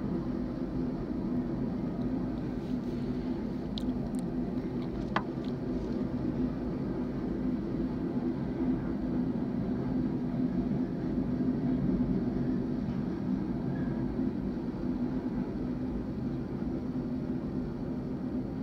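A train passing, a steady low rumble that grows a little louder about ten seconds in. A single sharp click about five seconds in.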